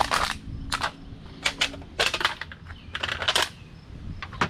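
Clusters of sharp metallic clicks and clatters, about six bursts, the loudest near the end: empty aluminium beverage cans being picked up with a litter grabber and rattled into a bucket.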